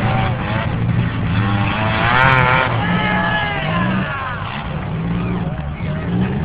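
Compact demolition-derby cars' engines running and revving in the arena during a heat, loudest with a rising and falling rev about two seconds in.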